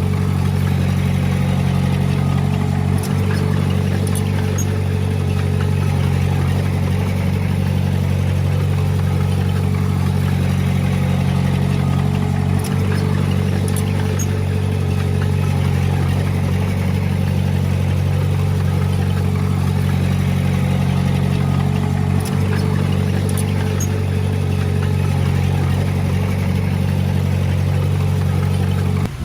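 Heavy earthmoving machine's diesel engine running steadily at constant speed, with a deep, even drone.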